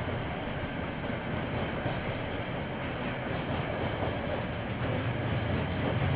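KiwiRail train passing, a steady rumbling noise that grows a little louder and heavier near the end, picked up by a security camera's microphone.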